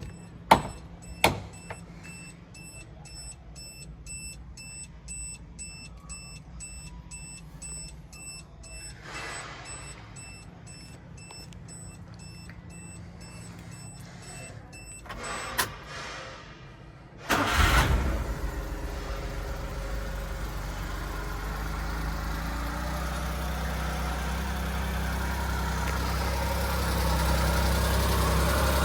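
Sharp clicks, then a steady, evenly repeating high electronic beep for about fifteen seconds. About seventeen seconds in, the 1998 Suzuki Carry's small three-cylinder engine cranks and catches with a loud burst, then settles into a steady idle that rises slightly near the end.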